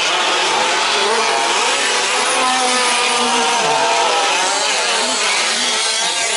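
Several 1/5-scale RC trucks' small two-stroke petrol engines running together, their overlapping pitches rising and falling as they rev during the race.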